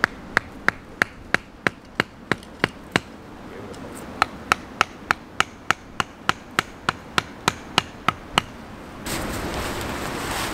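Hatchet chopping wood in quick, even strokes of about three a second: two runs of sharp ringing chops with a break of about a second between them. The chopping stops near the end and a steady rushing noise takes over.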